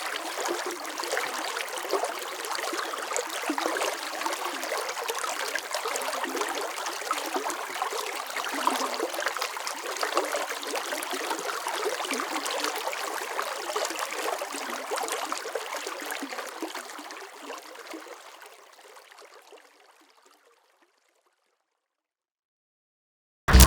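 Running water flowing steadily, an even rushing with fine trickling detail, which fades out over the last few seconds to silence. A sudden loud sound cuts in at the very end.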